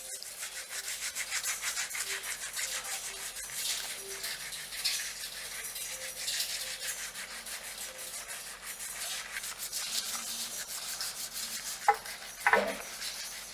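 Fingers scratching and rubbing through hair and scalp in quick, continuous strokes. Two sharp knocks come near the end.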